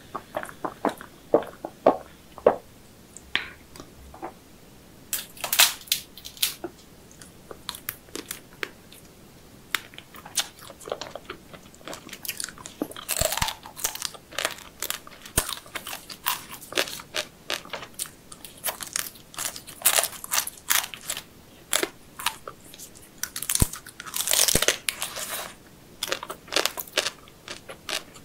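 Close-miked eating sounds: irregular crunching, biting and chewing of seafood, with many sharp crackles, some in short clusters.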